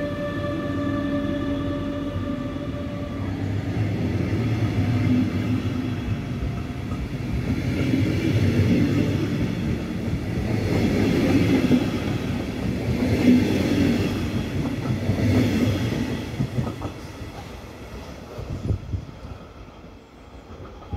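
DB Regio regional train, an electric locomotive hauling double-deck coaches, running through without stopping. A steady high whine from the locomotive fades out in the first three seconds. Then the rumble and rail clatter of the coaches' wheels swell about every two and a half seconds as each car goes by, and die away over the last few seconds as the train draws off.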